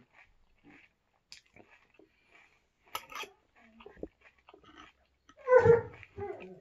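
Close-up chewing of crunchy Oatmeal Crisp cereal, with scattered small crunches and a sharp click about three seconds in. Near the end comes a short, louder voice-like sound.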